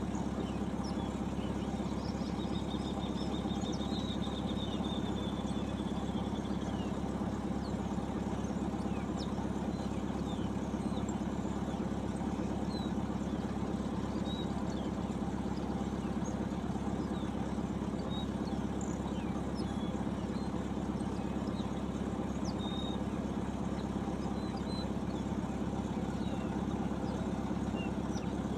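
An engine idling with a steady, even hum throughout. Small birds chirp faintly over it, and one trill sounds from about two to seven seconds in.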